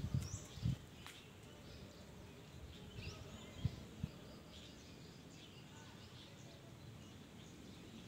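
Faint, scattered high chirps of small birds over a quiet outdoor background, with two dull low knocks about halfway through.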